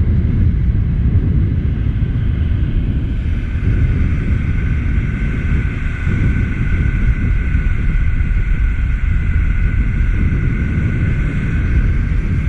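Small fishing boat's outboard motor running steadily under way, with a heavy rumble of wind and water on the microphone; a steady whine from the motor comes in about three seconds in.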